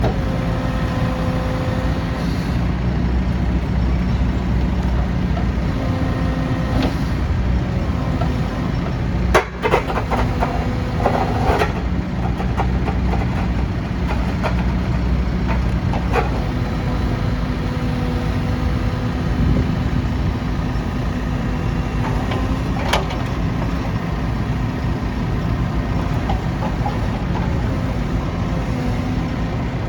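Diesel engine of a Bobcat 341G midi excavator running steadily at idle, with a cluster of sharp knocks about a third of the way in and a single knock near the end.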